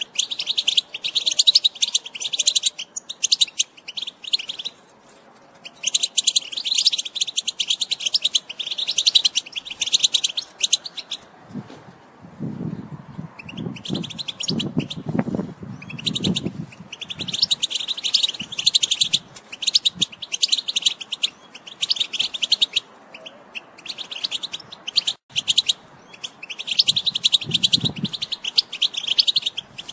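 European goldfinch singing its rapid twittering 'batbata' song in phrases of a few seconds with short pauses between them. A low rumble comes in under the song about halfway through and again near the end.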